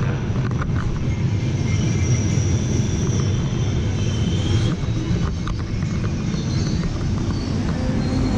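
Steady low rumble of a Trenitalia train standing at the platform, with a faint high whine about two to three and a half seconds in.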